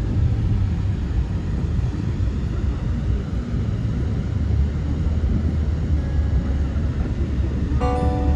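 Steady low rumble, with plucked acoustic guitar music coming in near the end.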